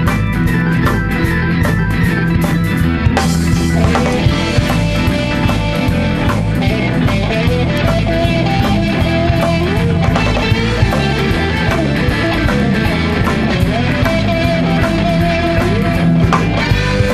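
Instrumental break of a blues-rock band: a lead guitar playing sustained, bent notes over drums and bass, with no singing.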